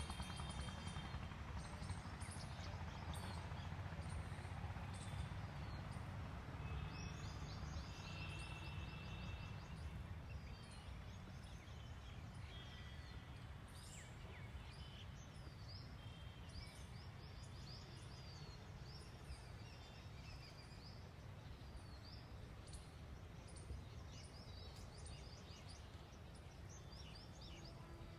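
Several birds chirping and calling, with many short chirps and a few brief whistled notes overlapping all through, over a steady low rumble.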